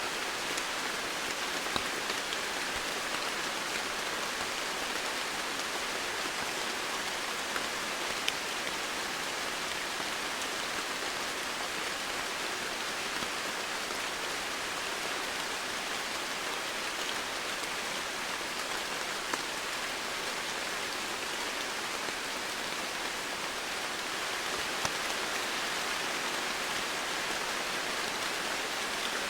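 Steady rain falling on foliage and surfaces, an even hiss with occasional single louder drops.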